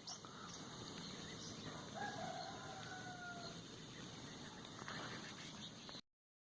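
A rooster crowing once in the distance, one long slightly falling call about two seconds in, over faint morning outdoor background. The sound cuts off to silence near the end.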